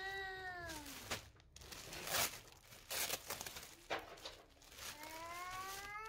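A cat meowing twice in a drawn-out way: the first meow falls off just under a second in, the second rises and starts near the end. A few clicks and knocks sound between them.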